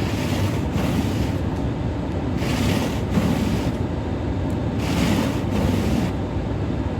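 Steady low rumble of a car running, with a pair of quick swishing strokes repeating three times, about every two and a half seconds.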